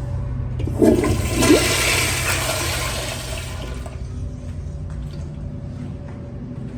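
American Standard Afwall wall-hung toilet flushing: a loud rush of water starts about a second in, strongest for about three seconds, then dies down to a quieter steady hiss. A steady low hum runs underneath.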